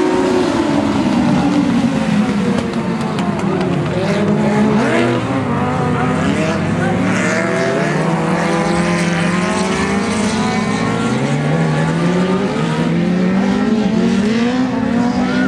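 A pack of dwarf race cars, with motorcycle engines, running at racing speed around an oval, several engines at once rising and falling in pitch as they pass and circle the track.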